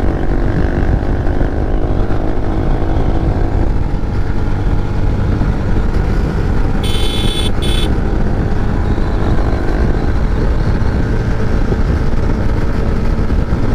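Motorcycle running at riding speed, a steady engine drone under heavy road and rush noise. A short high-pitched beep sounds twice about seven seconds in.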